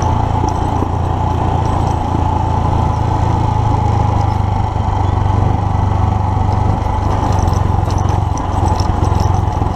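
2019 Royal Enfield Himalayan's 411 cc single-cylinder engine running steadily as the motorcycle rides along a dirt track, with wind and tyre noise.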